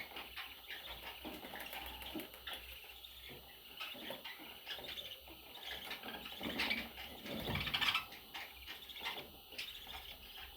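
Budgerigars chirping and chattering in quick, scattered short calls, with one louder, lower sound about three-quarters of the way through.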